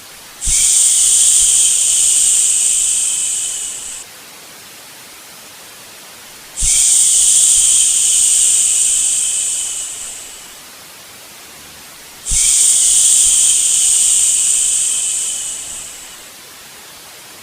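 A long 'shhh' shushing sound made to soothe a baby, repeated three times, each lasting three to four seconds, starting abruptly and tapering off at the end. A steady, fainter white-noise hiss fills the short gaps between them.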